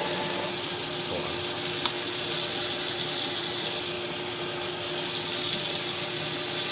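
Clausing 4800 metal lathe running with its power feed engaged as it faces an aluminum shaft. The gear train whirs steadily, with a steady hum and a faint click about two seconds in.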